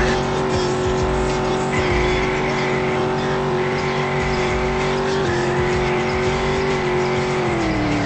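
Car engine held at high, steady revs while its tyres squeal through donuts; the revs fall away near the end.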